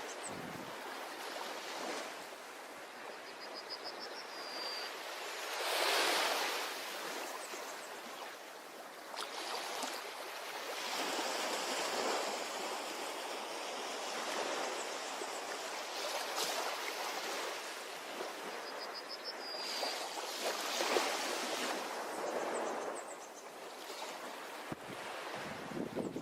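Ocean surf washing onto a shore, the waves swelling and easing every few seconds. A faint, short, high chirp comes twice.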